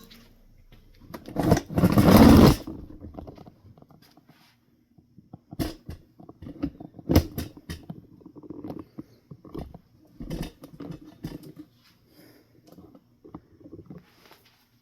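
A loud rustling clatter about two seconds in, followed by scattered knocks and clicks of things being handled and set down.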